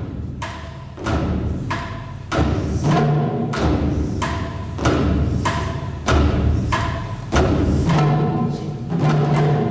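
Ensemble of Japanese taiko drums playing a steady rhythm of heavy strikes, each stroke ringing on, with denser hits in the second half.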